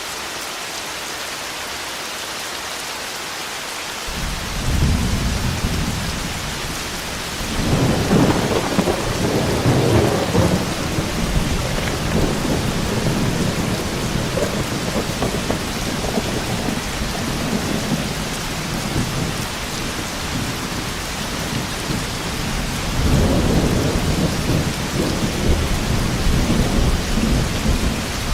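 Steady heavy rain with rolling thunder: a long rumble begins about four seconds in and swells to its loudest a few seconds later, and another peal rolls in near the end.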